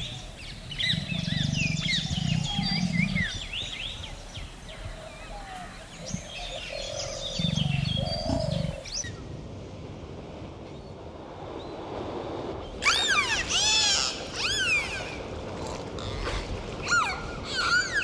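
A tiger growls in low bursts over chirping birds. Then, about halfway through, dolphins whistle in quick repeated rising-and-falling sweeps.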